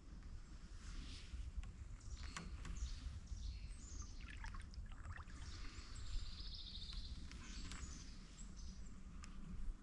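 Several wild birds calling and chirping in a swamp forest, with a short trill about seven seconds in, over a faint low rumble and light water sounds from a canoe paddle.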